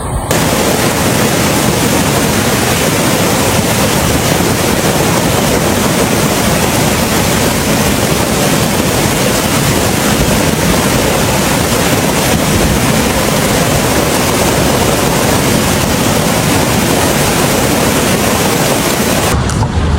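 Loud, steady rushing of water. It starts suddenly just after the beginning and breaks off near the end.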